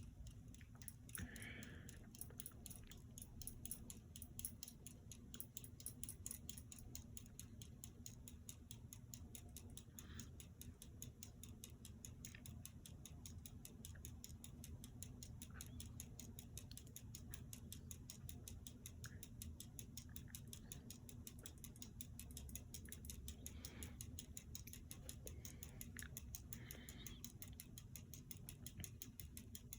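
Hampton Bay Landmark III Plus ceiling fan running on low speed: a faint steady hum with a fast, even, faint ticking over it.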